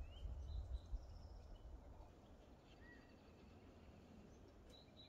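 Faint, scattered chirps of small birds calling, a handful of short notes, over a low rumble.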